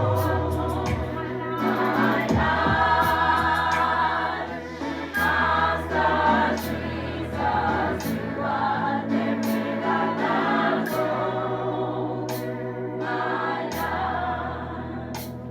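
Youth choir singing gospel music over sustained low notes, with sharp high ticks scattered through; it grows softer toward the end.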